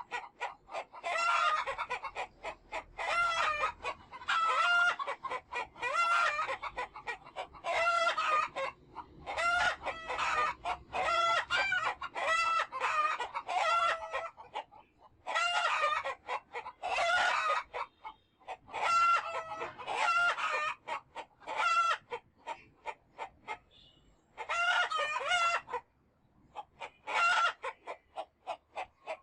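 Chickens calling in repeated bouts of clucking and cackling, each bout about a second or two long with short pauses between.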